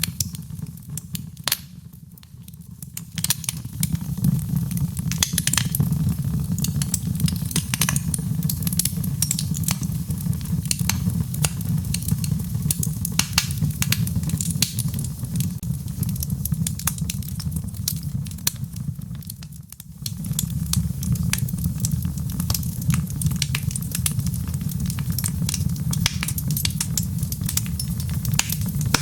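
Fireplace fire crackling and popping over a steady low rumble of flames. The sound thins briefly about two seconds in and again about two-thirds of the way through.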